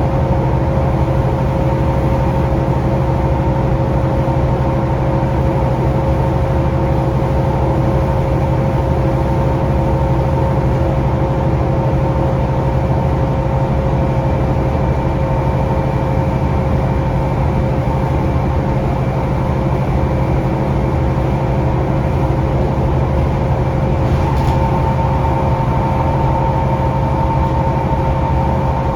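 Scania K360UA articulated bus heard from inside, its Scania DC9 diesel engine running steadily under a constant rumble, with several steady whining tones over it.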